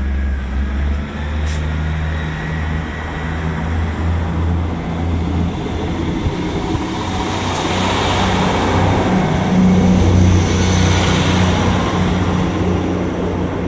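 ScotRail diesel multiple unit passing close by: a steady underfloor diesel engine drone with the rumble of wheels on the rails. The rumble swells loudest about eight to eleven seconds in as the carriages go past.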